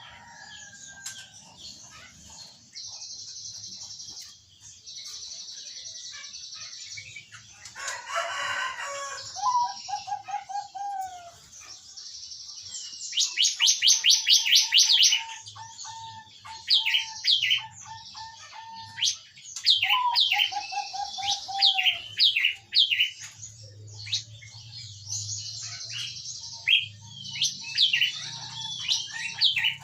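Zebra doves (perkutut) cooing in quick runs of notes, mixed with loud, rapid chirps of smaller birds and a steady high buzz that starts and stops.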